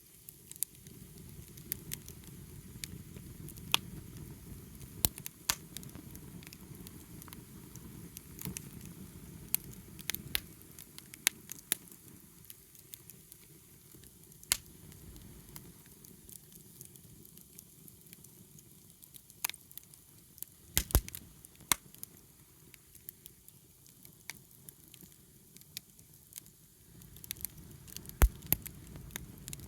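Wood fire burning, with scattered sharp crackles and pops over the low, steady rumble of the flames. The loudest pops come about 21 seconds in and near the end.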